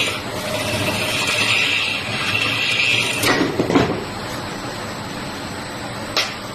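Woodworking noise: long, even strokes of a tool working wood, then a couple of sharp knocks a little past three seconds in. A steady, quieter noise runs underneath afterwards.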